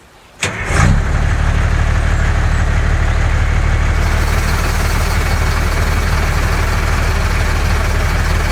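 Truck engine starting about half a second in, then idling steadily.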